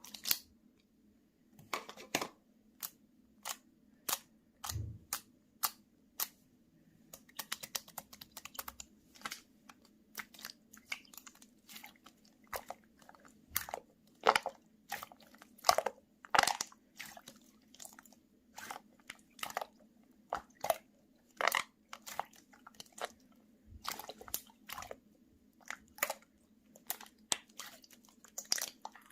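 Slime being squeezed and pressed by hand, giving irregular sharp pops and crackles, with the loudest pops about halfway through. A faint steady hum runs underneath.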